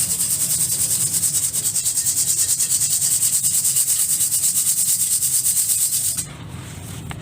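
Dry gritty material rubbed rapidly and rhythmically, a hissy rasp of several strokes a second that stops abruptly about six seconds in.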